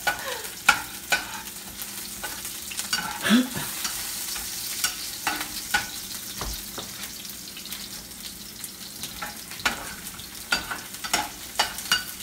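Onion, ginger, garlic and green pepper sizzling in hot oil in a frying pan, with frequent sharp clicks and scrapes of a utensil stirring and tapping against the pan and plate.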